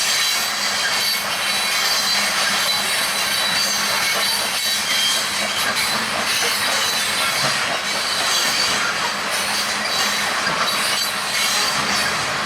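Freight train cars rolling steadily past, steel wheels on the rails with a thin, high wheel squeal held over the rolling noise.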